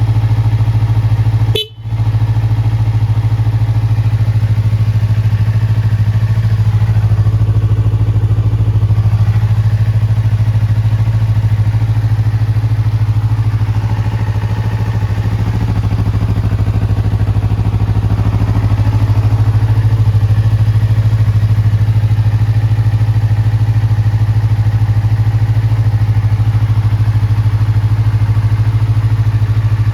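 Yamaha YZF-R25's 249 cc parallel-twin engine idling steadily through a Y's Gear PRUNUS slip-on muffler. The sound drops out briefly about two seconds in.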